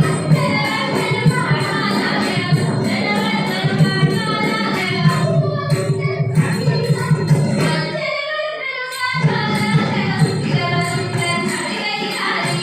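Ottan thullal music: a voice singing verses over a steady jingling beat of small hand cymbals and percussion. The low part drops out briefly about eight seconds in, then comes back.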